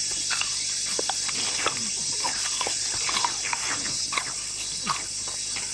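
A steady high-pitched insect drone, with many short cries scattered over it.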